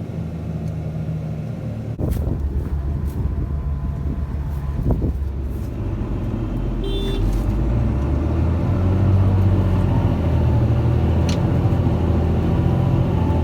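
Heavy diesel engines of a forage harvester and tractor working under load while chopping maize: a steady low engine note. It gets louder about two seconds in and builds again over the second half.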